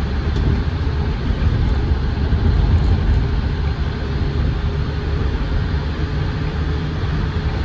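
Land Rover Defender 110 Td5's five-cylinder turbodiesel running while the vehicle is driven along, heard from inside the cab as a steady low rumble with road noise. The body is very rattle free.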